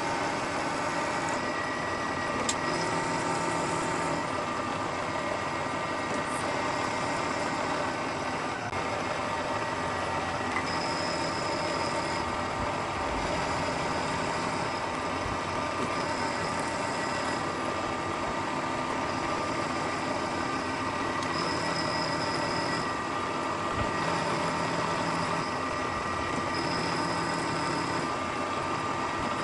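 Milling machine running a roughing cut in an aluminum bar under the x-axis power feed: a steady motor and spindle whine with the noise of the cutter in the metal. From about ten seconds in, a higher tone comes and goes every few seconds.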